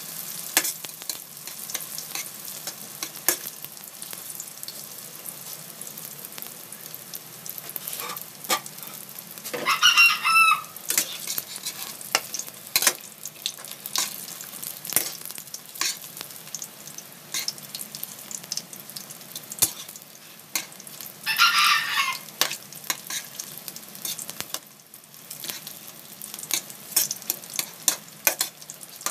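Lumpia frying in oil in a metal wok, sizzling and crackling, with sharp clicks of metal tongs against the pan as the rolls are turned. A rooster crows twice, about ten seconds in and again some twelve seconds later, each crow louder than the frying.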